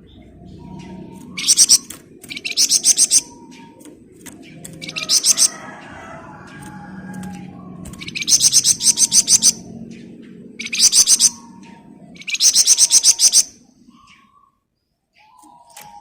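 Flamboyan songbird singing in loud, rapid rattling bursts ('ngebren'), each about a second long and repeated about six times, over a faint low background murmur.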